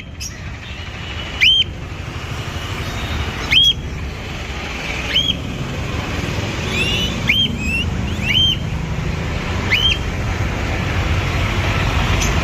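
A bird giving short, sharp rising whistled calls, repeated every one to two seconds, over a steady low traffic rumble.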